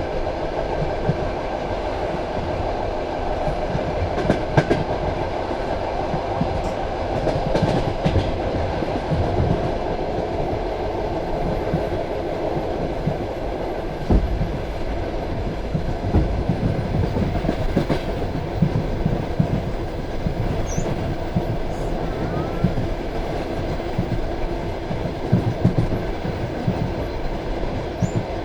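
Passenger railway carriage running along the track: a steady rumble of wheels on rail, with irregular knocks as the wheels pass over rail joints.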